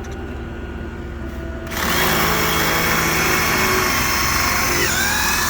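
Drill spinning a swaging bit into the end of a 1/2-inch copper tube to expand it into a coupling, starting a little under two seconds in as a steady whine; the pitch drops for a moment near the end as the bit takes load.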